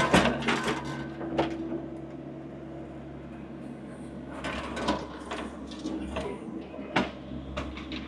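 Skid steer engine running steadily, with scattered clunks and knocks over it, the sharpest about seven seconds in.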